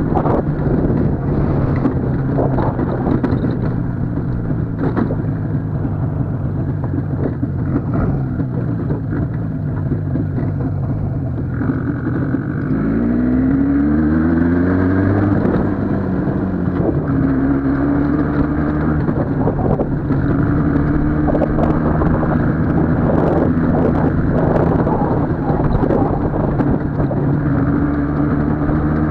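IZh motorcycle's two-stroke engine running under way. It holds a steady note at first, then about twelve seconds in the engine revs up for a few seconds as the bike accelerates, and settles into a higher steady note.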